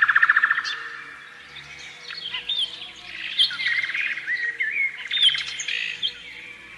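Canary singing: a fast rolling trill at the start, then a run of varied chirps and short whistled rising and falling notes.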